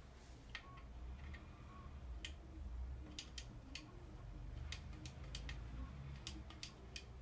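Low-speed rebound adjuster knob on a Fox DHX2 rear shock being turned, its detent giving a dozen or so short, sharp clicks at uneven spacing over a faint low rumble.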